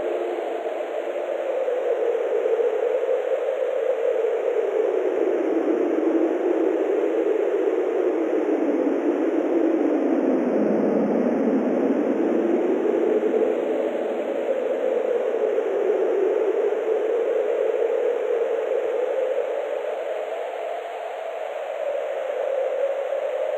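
Wind ambience: a steady rushing noise whose pitch slowly rises and falls, sinking lowest about halfway through.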